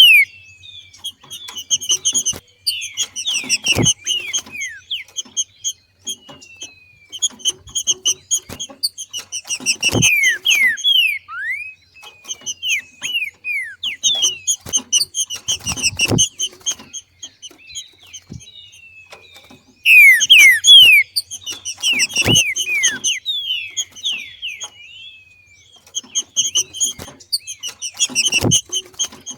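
Green-winged saltator (trinca-ferro) female giving her chattering 'macheado' call, the female call used to excite males into singing. It comes in repeated bursts of quick high chirps and falling notes, with a short sharp knock about every six seconds.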